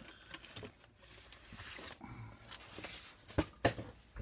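Plastic model kit parts being handled: soft rustling with scattered small clicks, and two sharper clicks about three and a half seconds in.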